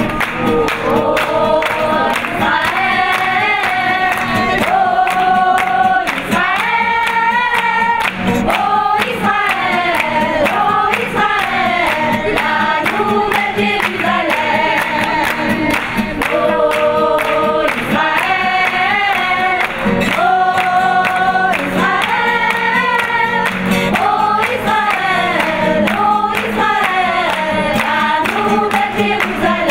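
Music: a choir singing in harmony with instrumental accompaniment.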